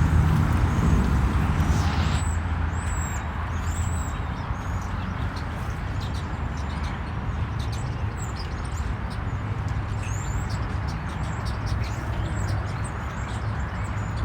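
Small birds chirping in short, repeated high calls over a steady low rumble.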